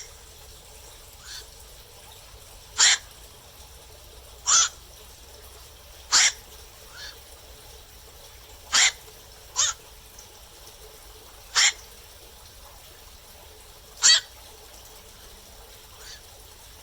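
Black-crowned night heron giving single short, harsh 'kwak' calls at night: seven loud ones at irregular gaps of one to two and a half seconds, with a few fainter calls from further off between them, over a steady faint hiss.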